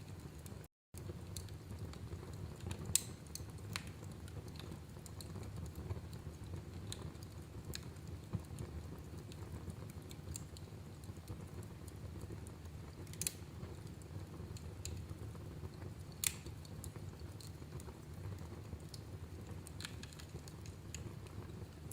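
Wood fire in a fireplace burning with a low steady rumble and scattered sharp crackles and pops, a few of them louder. The sound cuts out for an instant just under a second in.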